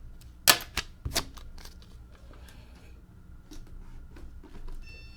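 Handling noises: three sharp clicks or knocks close together about half a second to a second in, then fainter ticks and light rustling as a box and its packaging are handled.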